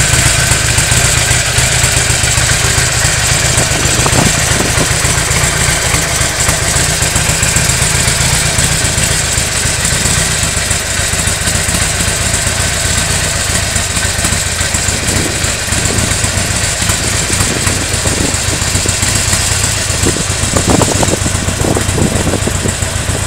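Harley-Davidson XL1200N Nightster's 1200 cc Evolution V-twin idling steadily through North American-spec mufflers.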